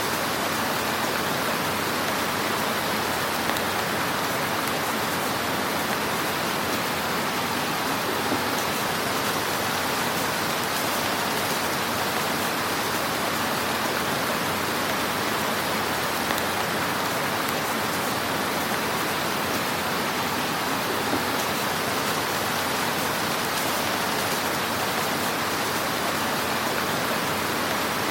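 Wood fire in a fireplace crackling steadily: a dense, even crackle with only a few small pops.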